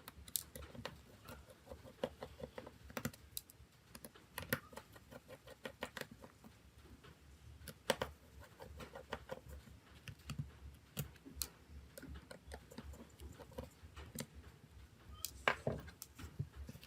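Irregular small clicks and taps of hand tools and plastic smartphone parts being handled during a phone teardown, with a few sharper knocks among them.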